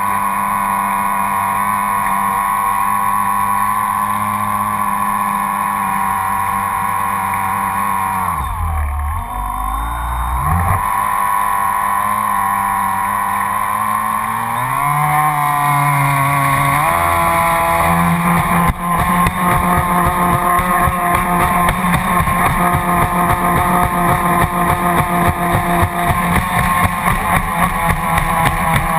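Onboard sound of an electric RC speed boat's Graupner 700 BB Turbo motor whining at speed, with the surface-drive prop churning water. About eight seconds in the whine drops sharply in pitch and then climbs back, rising again a few seconds later. From about eighteen seconds a fast, regular pulsing sets in as the hull porpoises over the water.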